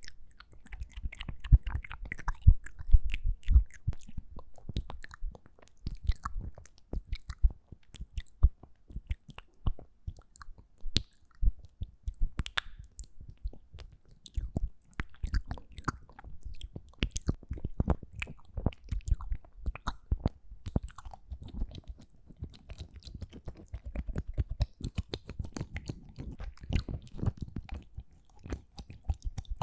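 ASMR mouth sounds made close to the microphone: a dense, irregular run of wet clicks and smacks from the lips and tongue.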